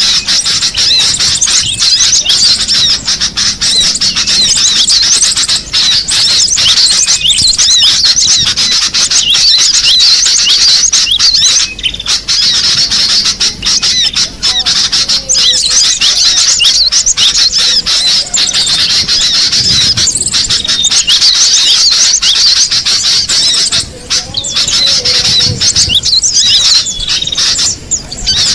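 Cinereous tits (gelatik batu) calling: many high, quick chirps and short whistled notes overlapping in a continuous chatter.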